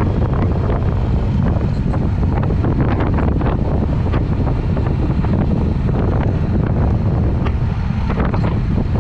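Triumph Speed Twin with a Vance & Hines exhaust running on the move, under heavy wind buffeting on the microphone.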